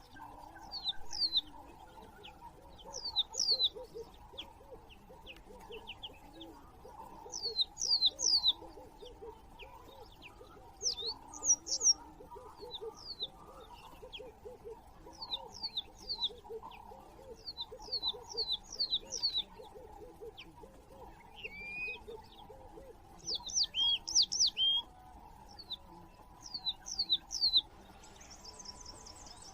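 Birds calling: quick clusters of short, high, falling chirps, two to five at a time, every second or two. A steady run of low repeated notes sounds underneath.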